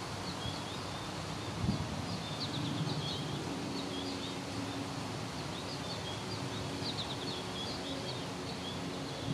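Small birds chirping over and over in short high notes, over a steady background hiss and a faint low hum.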